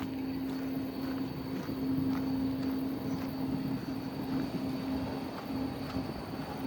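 A steady mechanical drone: one constant hum over a rumbling, hissing background, like a motor or engine running evenly.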